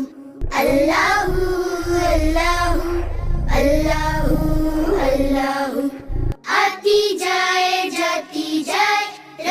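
A children's song in Hindi sung over background music, with a low rumble under the first two-thirds.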